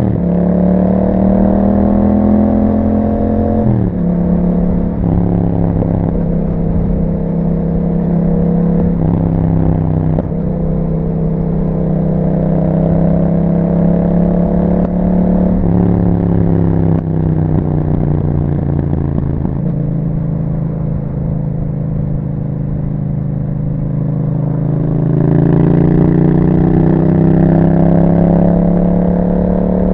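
Yamaha MT-07's 689 cc parallel-twin engine through an aftermarket Akrapovic exhaust while riding: it pulls up through the gears, the pitch climbing and then dropping at each shift, about three times in the first half. It then holds fairly steady for a while before rising again near the end.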